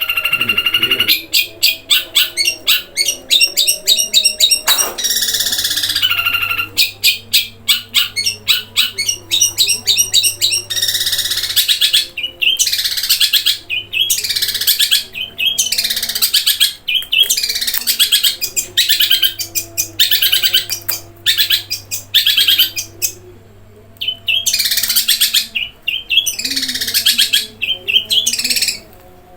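Long-tailed shrike singing loudly. It opens with fast rattling rolls, then gives a run of downward-sweeping calls separated by short pauses.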